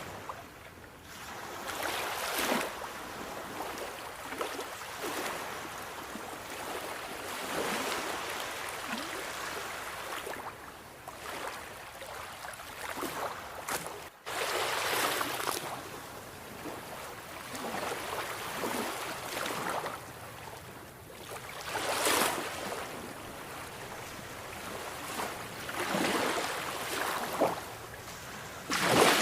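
Sea waves breaking and washing in, swelling and ebbing every few seconds, with louder surges now and then. There is a brief dropout about halfway through.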